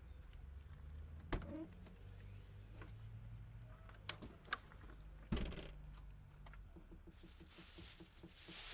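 Quiet room with a low steady hum and a few isolated sharp clicks and knocks, then a light regular ticking of about four a second near the end.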